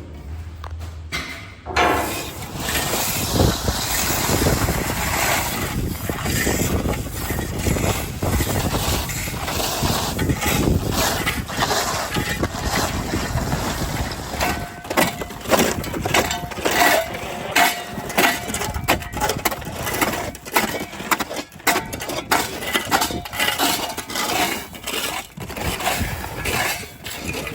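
Gravel being scraped and shovelled off a flat roof: dense crunching and scraping with many sharp knocks, starting about two seconds in.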